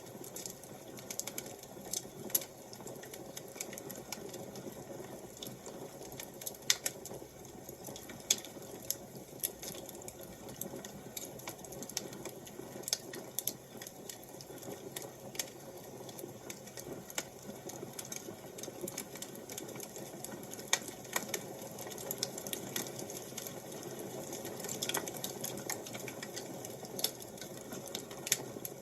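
Wood fire crackling: a steady low rush of burning with irregular sharp pops and snaps scattered throughout.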